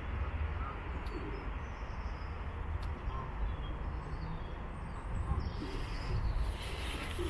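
Birds calling: a few low, pigeon-like coos and faint high chirps from small birds, over a steady low rumble.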